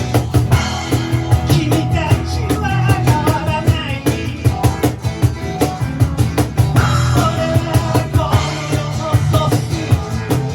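Improvised rock played loudly by a live band, with a fast, steady drum beat and strong bass under shifting guitar or vocal lines.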